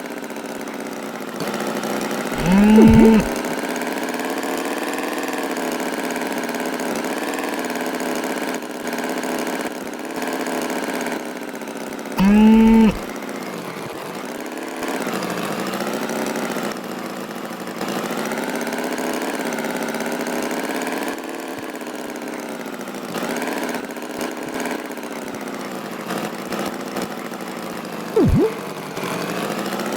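Cartoon tractor engine sound effect running steadily, its pitch wavering slightly. Three short, loud pitched sounds stand out over it about two and a half seconds in, about twelve seconds in, and near the end.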